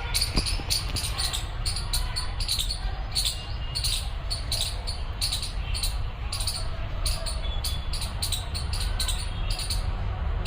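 Small birds giving sharp, rapidly repeated call notes, several a second, over a steady low rumble of wind on the microphone; the kind of alarm chatter garden birds raise when a cat is prowling near.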